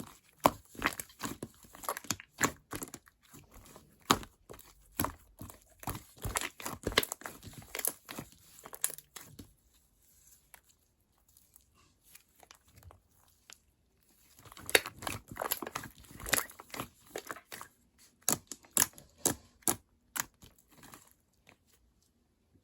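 Mixed butter and jiggly slime being squished and stretched by hand, giving quick sticky pops and crackles. It goes quiet for a few seconds in the middle, then the popping starts again and dies away near the end.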